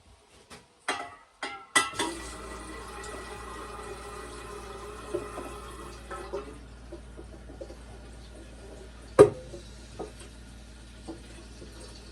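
A few clicks, then water from a kitchen tap running into a kettle as it fills, a steady rush with a low hum underneath, louder for the first few seconds and softer after. A single sharp click stands out about nine seconds in.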